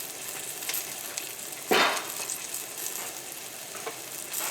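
Floured chicken pieces sizzling as they fry in hot olive oil, a steady hiss, with one brief louder burst a little under two seconds in.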